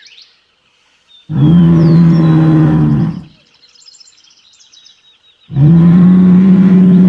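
African buffalo bull under attack by lions, bellowing in distress: long, steady, drawn-out moaning calls, one about a second in and another starting about halfway through. Faint bird chirps between the calls.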